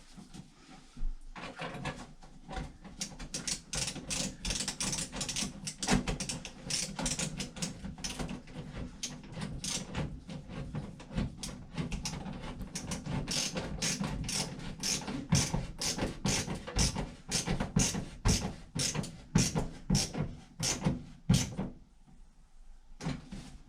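A clamp being tightened around a flexible aluminum dryer vent duct: a long run of rapid ratcheting clicks and rasps for about twenty seconds, stopping near the end.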